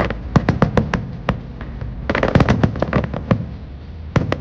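Aerial firework shells bursting overhead: a rapid, uneven run of sharp bangs and crackles over a low rumble. They come in a cluster in the first second, a denser volley from about two seconds in, and a few more just before the end.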